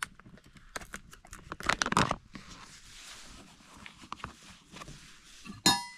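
Spoon and bowl sounds while eating oatmeal: scattered scrapes and knocks, loudest about two seconds in, and a short ringing clink near the end.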